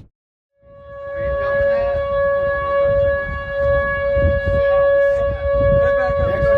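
An outdoor warning siren sounding on one steady pitch, starting about half a second in, over a low rumble of wind.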